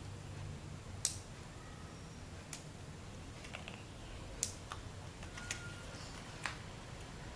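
Lego plastic pieces clicking as they are handled and pressed together: a handful of short, sharp clicks at irregular intervals, over a faint low hum.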